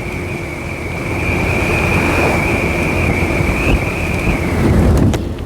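Motorcycle running at road speed, with wind rushing over the microphone and a steady high-pitched whine that fades out near the end.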